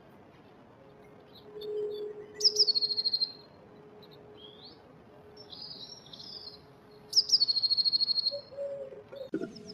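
Blue tit singing twice, each phrase a couple of high thin notes running into a quick trill, with softer twittering calls between the two phrases.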